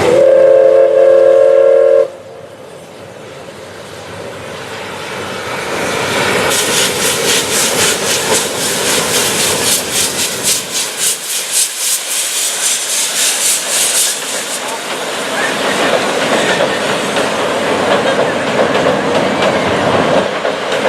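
Oigawa Railway steam locomotive whistle sounding one blast of about two seconds. Then the train approaches and passes, with a rapid, regular beat for several seconds in the middle and the passenger coaches clattering over the rail joints.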